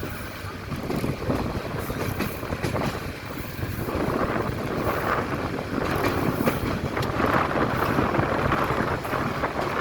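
Passenger train running, heard from on board: a steady rumble of wheels on the rails with fast rattling and wind noise. It is a little quieter for the first few seconds, then steady.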